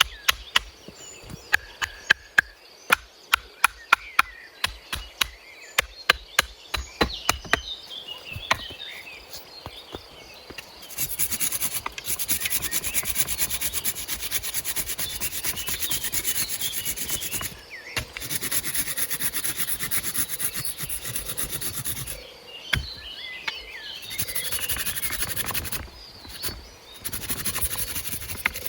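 Hand tools working wood: a run of sharp wooden knocks, two to three a second, then long stretches of rasping, like sawing or scraping wood, that stop briefly several times.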